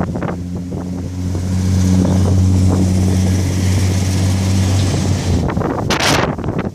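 Strong wind buffeting the microphone over a steady low engine hum that fades out about five seconds in, followed near the end by a brief loud rush of noise.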